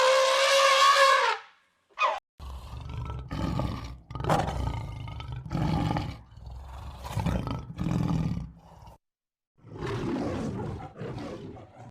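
A big cat roaring: a series of deep roars about a second apart. Before them comes a loud, high, held call that cuts off just over a second in.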